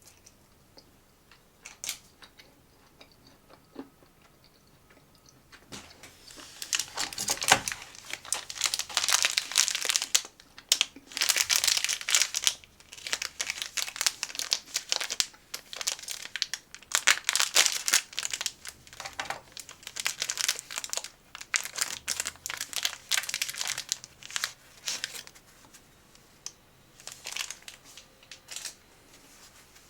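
Snack packaging being handled: a few light clicks, then from about six seconds in a long spell of crinkling and tearing of the wrapper, with a few more crinkles near the end.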